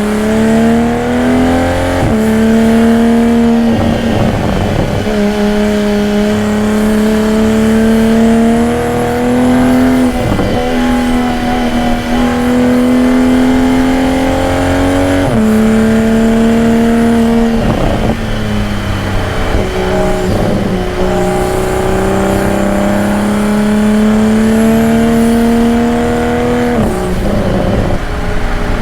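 Toyota Supra engine and exhaust pulling under load while driving. The engine note climbs slowly, then drops back abruptly about half a dozen times.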